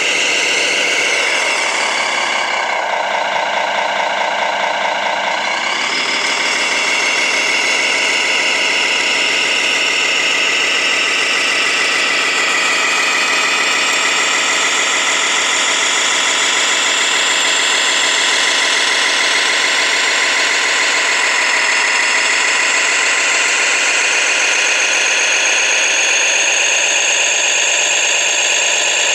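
Tamiya Scania 6x6 radio-controlled truck driving, a steady mechanical drone with a whine. Its pitch drops about two seconds in and climbs back a few seconds later.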